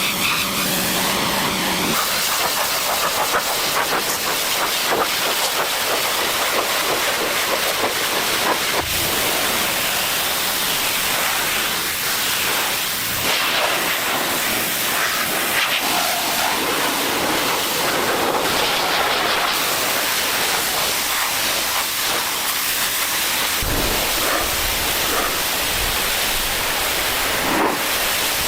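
A steady, loud hiss, strongest in the high range, with a few low thumps in the second half.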